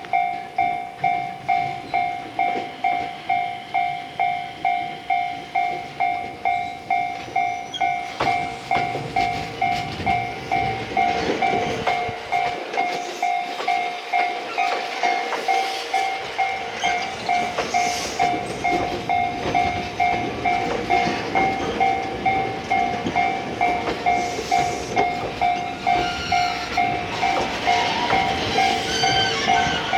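Railway level-crossing warning bell dinging steadily at about two strikes a second. A train passes from about eight seconds in, its wheels clattering over the rails.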